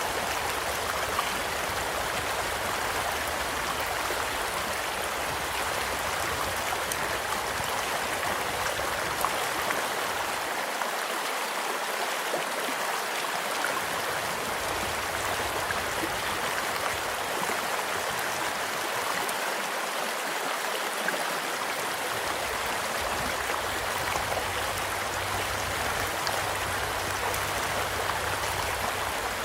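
Stream water flowing and splashing steadily, with occasional small crackles from a wood campfire scattered over it.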